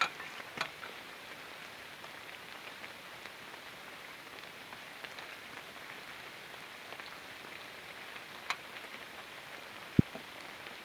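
Light rain and drips from wet leaves pattering steadily, with scattered small ticks, a couple of sharper clicks and one loud knock near the end.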